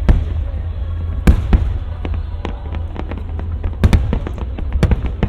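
Fireworks shells bursting overhead: a rapid run of sharp bangs and cracks, with several heavier booms, over a continuous low rumble.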